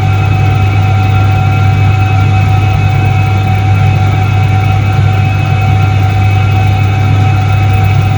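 1978 Soviet Iset-3 washing machine running, its electric motor giving a loud, steady hum with a few constant higher tones over it.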